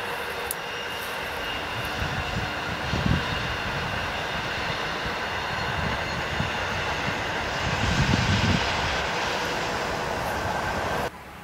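Steady rushing noise of a locomotive-hauled SBB passenger train passing along the line, with stronger low rumbles twice, about three and eight seconds in. The sound drops off suddenly just before the end.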